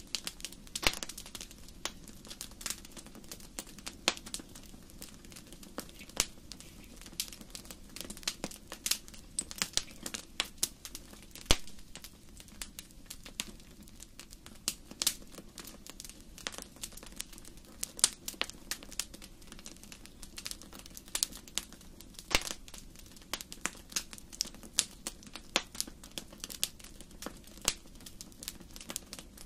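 Wood fire burning in a large fireplace: frequent irregular crackles and sharp pops over a low steady hiss, with a few louder snaps.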